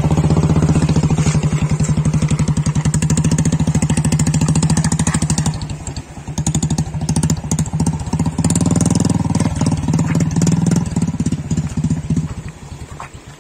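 Royal Enfield Bullet's single-cylinder engine running with a fast, even beat, easing off about six seconds in, picking up again, and falling away near the end.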